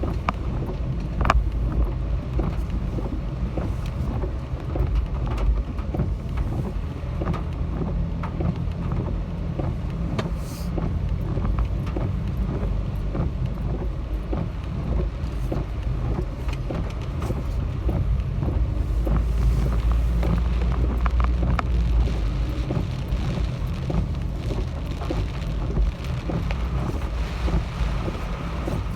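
Typhoon winds buffeting the microphone in a heavy low rumble that swells and eases in gusts, with rain falling.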